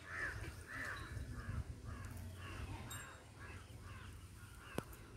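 A bird calling over and over, a quick run of short calls at about three a second that fades out after about three and a half seconds. A single sharp click comes near the end.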